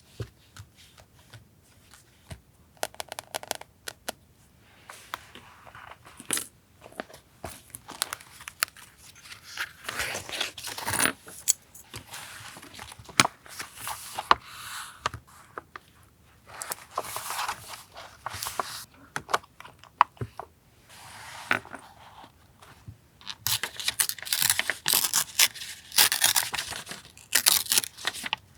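Paper being handled at close range: irregular spells of rustling, scraping and tearing, with small sharp clicks and taps between them. The sound grows busier and denser near the end.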